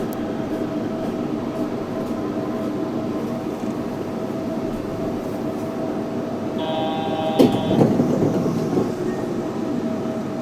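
Yurikamome 7300-series rubber-tyred automated train running, a steady rolling drone with a constant whine under it. About six and a half seconds in, a brief high multi-note tone sounds for about a second, ending in a sharp click and a short louder rumble.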